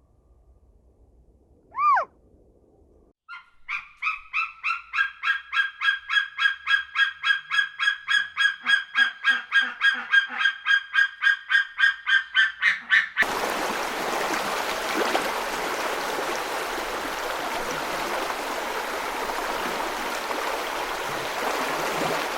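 A bird honking: one short call, then a rapid, even run of about four honks a second that stops abruptly. A steady rushing noise fills the rest.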